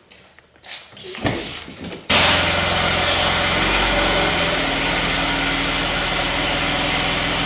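A small motor on mobile car-wash equipment starts abruptly about two seconds in and then runs steadily and loudly, with a constant hiss over its low hum.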